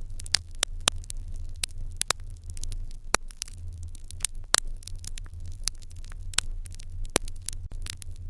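Irori hearth fire crackling, with irregular sharp pops over a steady low rumble.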